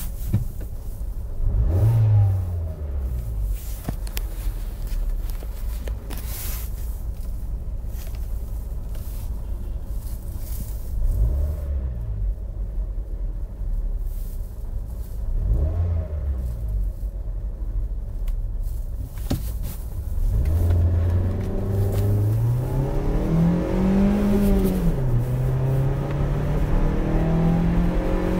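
Hyundai i20's 1.4-litre, 100 PS engine idling with three short throttle blips, then pulling hard under full acceleration about two-thirds of the way in, its note climbing and dropping back at gear changes before climbing again.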